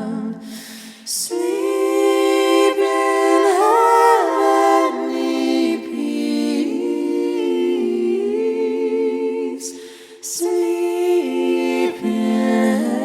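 Wordless a cappella singing: several voices holding long notes in harmony, with short pauses near the start and about ten seconds in.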